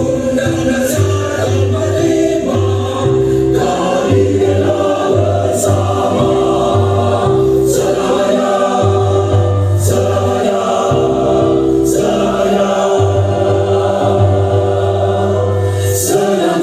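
Recorded choral music played loud: a choir singing sustained notes over an accompaniment with heavy, shifting bass notes.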